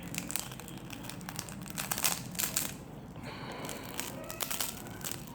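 Broken LCD screen of a Samsung Galaxy A7 (2018) being peeled off its adhesive: a run of crackling and tearing clicks, thickest about two seconds in.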